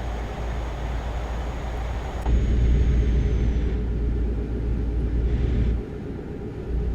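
A steady low rumble with a noisy hiss above it, changing abruptly about two seconds in and again near the end.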